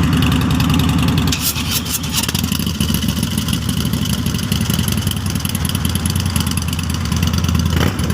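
Sport bike's motorcycle engine running steadily at a low, even speed, with a few clicks about one and a half to two seconds in.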